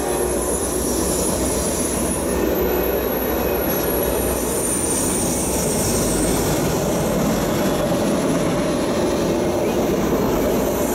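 Freight train of enclosed autorack cars rolling past at speed: a steady, loud rumble of wheels on rail, with a faint thin high squeal from the wheels drifting over it.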